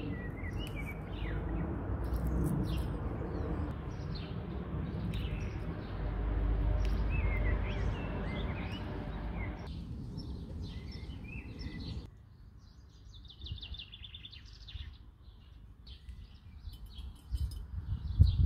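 Small birds chirping and singing, with short rising and falling notes and a rapid trill about thirteen seconds in. A low rumble lies under them for roughly the first twelve seconds, then drops away.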